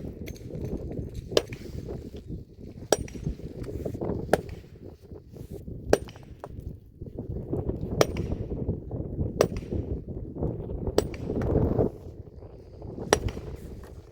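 Sharp knocks or clinks repeated about once every one and a half seconds, over a low rumbling noise.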